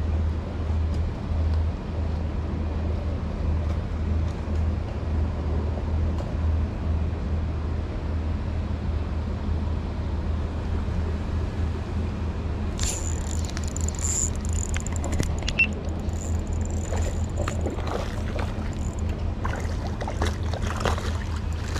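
A steady low machine hum. About 13 seconds in, a thin high whine and scattered ticks and clicks join it.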